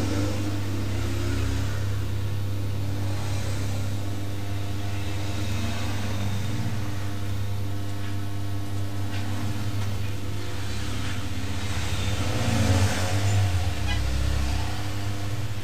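Steady low hum with faint higher tones, from a motor or electrical equipment running.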